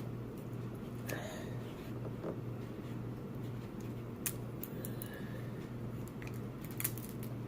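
Scissors snipping at a tough crab-leg shell: a few scattered sharp clicks and crunches, over a steady low hum.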